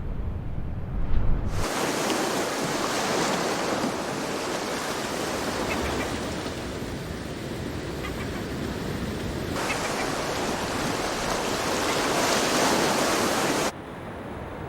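Steady, loud outdoor rushing noise, like surf or wind, in edited segments that start abruptly about a second and a half in, change sharply near 10 s, and drop suddenly near the end.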